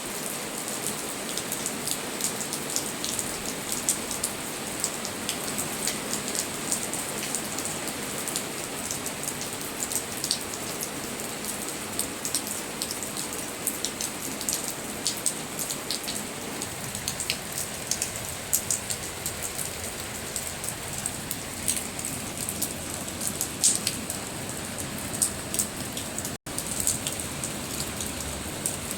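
Steady rain falling, with many individual drops landing as sharp little clicks over an even hiss. The sound cuts out for an instant about 26 seconds in.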